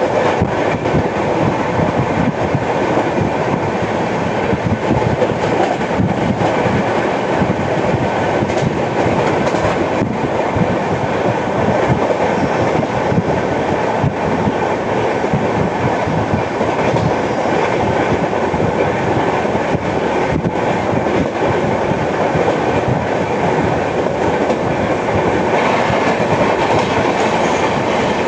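Passenger train running steadily at speed: coach wheels rolling and clattering over the rails in a continuous loud rumble.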